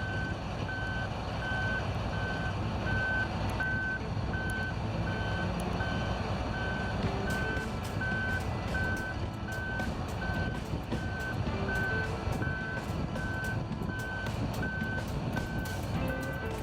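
Reversing alarm on a heavy machine beeping steadily, a little under two single-tone beeps a second, over the rumble of a large diesel engine.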